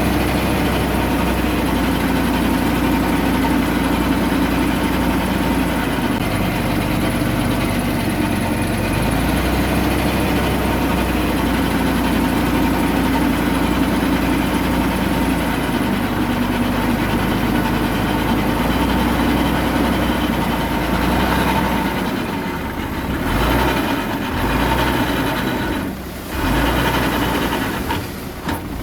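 Diesel engine of a Komatsu D21A mini bulldozer running steadily under work. In the last several seconds the sound dips and wavers several times.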